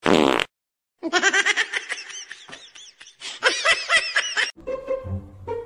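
Laughter: a run of quick, high-pitched laughs lasting about three seconds, after a brief loud sound at the very start.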